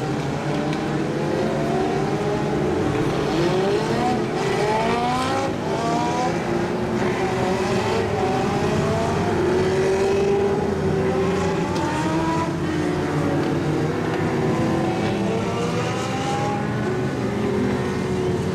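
A pack of Legends race cars running on an oval track. Their small motorcycle-derived engines are heard together, each one rising in pitch as it accelerates and then dropping back, over and over.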